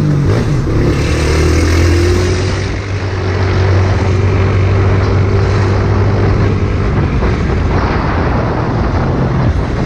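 Motorcycle engine running at a steady speed under a heavy rush of wind noise; the engine note holds, then fades about seven seconds in.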